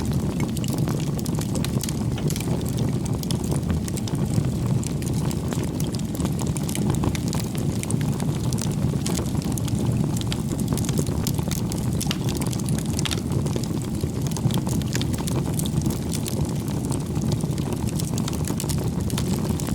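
Bonfire of firewood burning: a steady low rumble of the flames with constant small crackles and pops from the burning wood.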